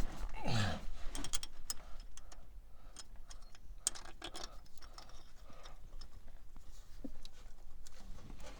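Scattered light metallic clicks and taps of bolts and hand tools being handled while the oil filter adapter bolts are refitted, with a brief falling grunt-like sound about half a second in.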